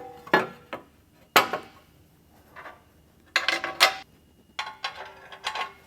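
Aluminium skid plate and its hardware clanking against the van's steel subframe as the plate is handled into place: a string of separate metal knocks, some with a short ring, and two quick runs of clinks in the second half.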